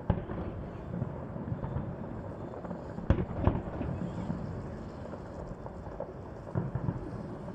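Fireworks shells bursting in the sky: a sharp bang right at the start, two louder booms about three seconds in, and a few smaller ones near the end, over a continuous low rumble of distant bursts.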